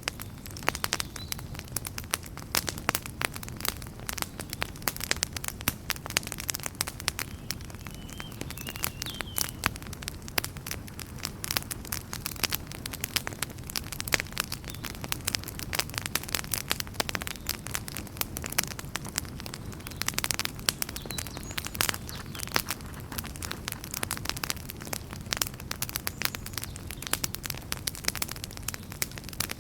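Wood campfire crackling: dense, irregular sharp pops and snaps over a steady low rumble of burning.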